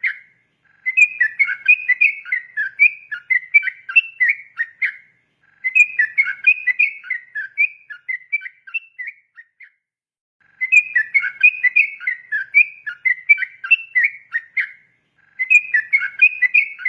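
Yellow-vented bulbul (trucukan) singing long runs of quick, bubbly whistled notes, in four bouts separated by pauses of about a second.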